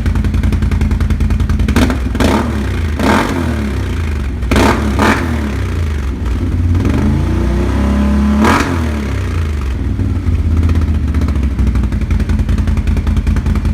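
Can-Am Renegade 1000R ATV's V-twin engine running through a Yoshimura exhaust with the spark arrestor fitted, revved in short throttle blips, about six in all, with one longer rev that rises and falls a little past halfway.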